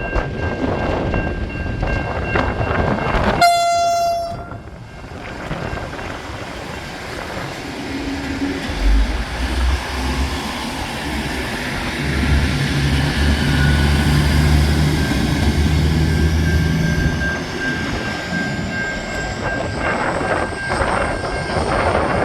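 V/Line Vlocity diesel multiple unit passing: one short horn blast about three and a half seconds in, then steady rumble of the diesel engines and wheels on the rails, with a high whine rising in pitch through the second half.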